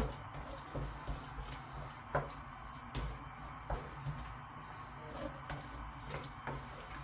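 Chopped onions frying in sesame oil in a wok over high heat, with scattered sharp clicks and knocks, about one or two a second.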